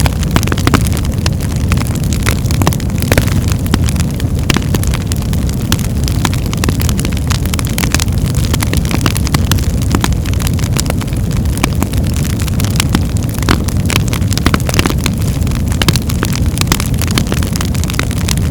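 Birch-log fire in a hearth crackling and popping, with many sharp snaps over a steady low roar of flames.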